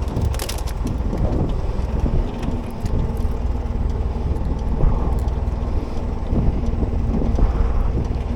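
Small boat's engine running at a steady low idle, with wind on the microphone and a few small clicks and knocks.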